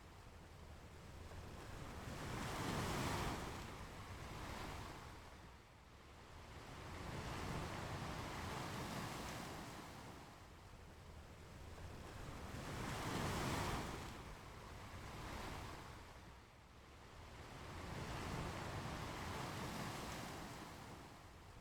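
Ocean waves breaking and washing up a beach. They come in slow swells about every five seconds, and the biggest surges come about three and thirteen seconds in.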